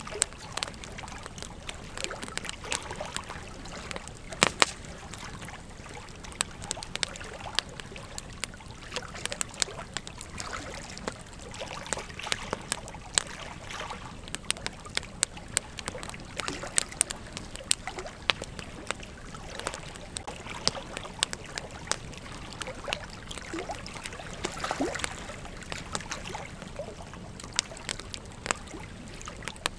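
Campfire crackling: many irregular sharp pops and snaps over a steady low hiss, a few pops much louder than the rest.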